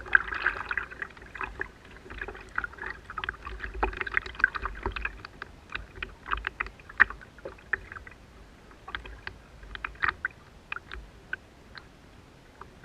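A fishing kayak on the water: irregular clicks and knocks against the hull, with water sloshing and a low rumble underneath.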